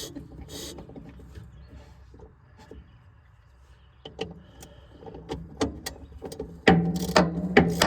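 Hand tools working on metal: a rasping stroke at the start, then a lull, then scattered sharp metallic clicks that build into a rapid run of clicks and knocks near the end.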